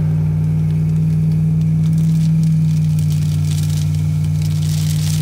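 Turbocharged LS V8 in a Mazda RX-7, heard from inside the cabin, cruising at low revs under light throttle: a steady, even exhaust drone. A hiss of rain and wet tyres on the road grows stronger near the end.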